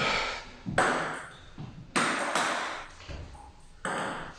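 Table tennis rally: the celluloid ball is struck by rubber-faced rackets and bounces on the table, with sharp clicks about a second or so apart, each followed by a short echo.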